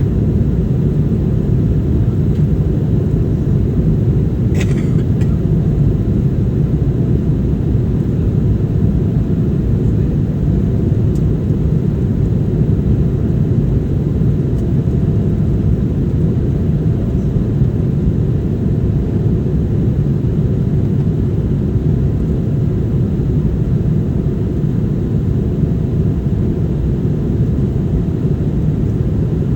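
Steady low roar inside an airliner's cabin, from its jet engines and the rushing air around it, with one brief rattle or click about four seconds in.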